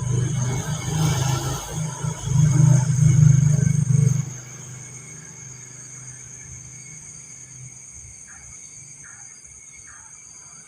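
A motor vehicle engine running close by for about four seconds, uneven and pulsing, then dropping away suddenly to a quiet background with faint steady high tones.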